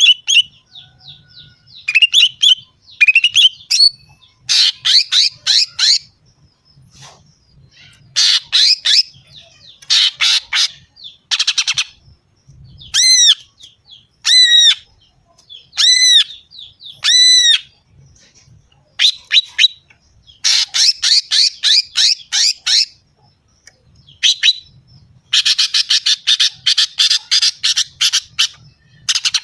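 Female cucak ijo (green leafbird) calling, the kind of call used as a lure to rouse males. It gives bursts of rapid, harsh chattering with short gaps between them. In the middle come four arching notes about a second and a half apart, and near the end a long unbroken rattle.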